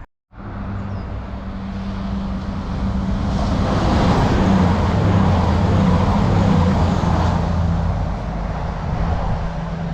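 Class 222 Meridian diesel multiple unit passing through the station: a steady diesel engine hum with the rush of wheels on rail building up, loudest around the middle, then easing off.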